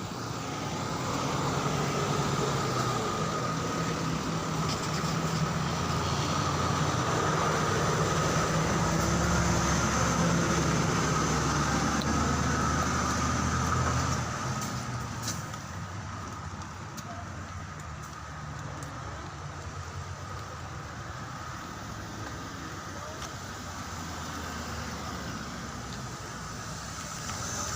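Steady running noise of a moving vehicle, engine hum and tyres on the road, louder through the first half and easing off about halfway through.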